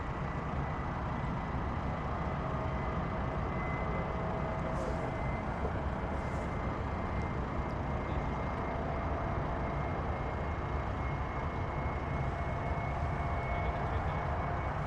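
Boeing 747's jet engines running: a steady rumble under a thin high whine that slowly rises in pitch, getting a little louder.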